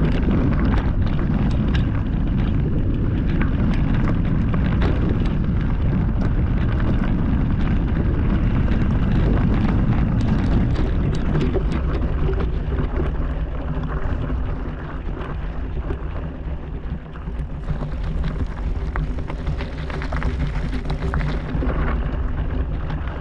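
Wind buffeting the microphone and the rattle and clatter of a mountain bike rolling over rocky trail. About halfway through, a steady buzzing hum joins in.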